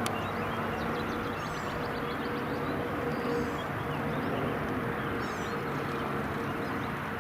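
Steady aircraft engine noise with a faint held tone, while small birds chirp in short high bursts.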